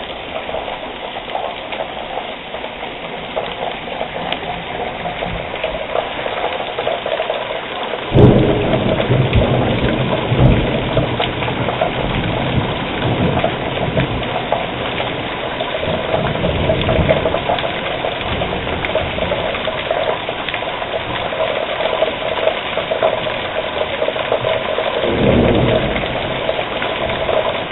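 Heavy rain pouring steadily, with a sudden loud thunderclap about eight seconds in that rumbles on for several seconds, and another rumble of thunder near the end.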